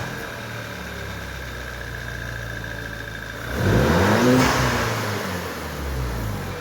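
Car engine idling, then revved once about three and a half seconds in: the pitch rises, holds briefly and drops back to idle.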